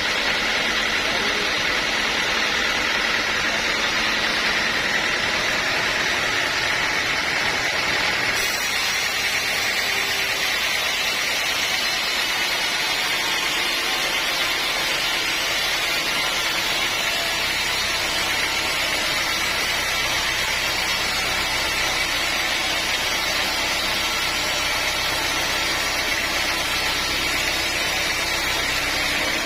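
Sawmill saw and machinery running with a steady, noisy whir. The sound changes about eight seconds in, and a low hum joins a little past halfway.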